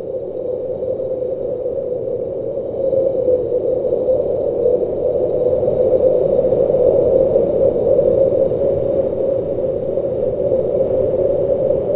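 Blizzard wind blowing steadily, a rushing noise concentrated in a low-middle band, swelling slightly about three seconds in.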